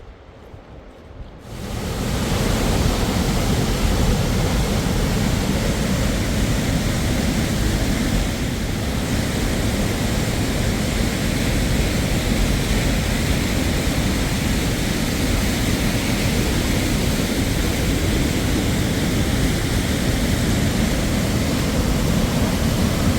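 Waterfall: a loud, steady rush of falling water that starts abruptly about a second and a half in.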